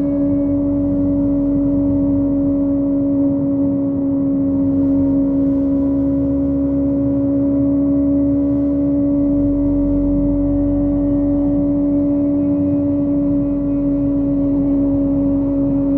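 Kawasaki ZX25R's 249 cc inline-four engine, through a Yoshimura exhaust, running at a steady pitch as the bike cruises at constant speed.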